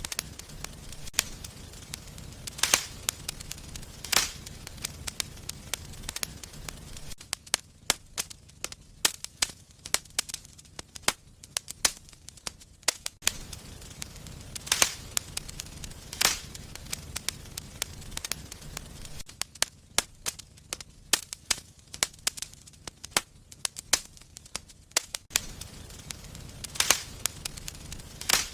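Wood fire burning in a fireplace, crackling with many small irregular pops and a few louder snaps every several seconds, over a soft low rumble of flame that fades at times.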